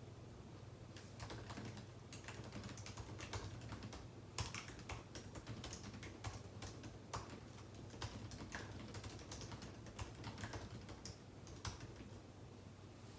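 Typing on a computer keyboard: uneven runs of keystroke clicks that start about a second in and stop near the end, over a faint steady low hum.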